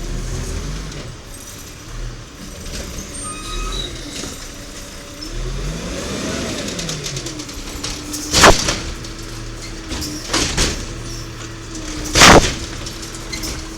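1993 WhiteGMC diesel garbage truck with an Amrep automated side-loader arm working: the engine revs up and back down midway, then runs with a steady whine. Two loud bangs about four seconds apart.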